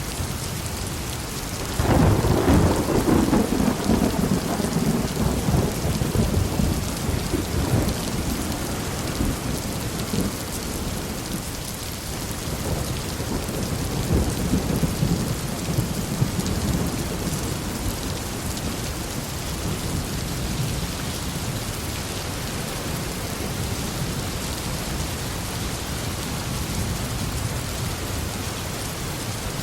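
Steady heavy rain with a thunderclap that cracks suddenly about two seconds in and rolls on as low rumbling for several seconds, fading out, with a weaker second rumble a little later.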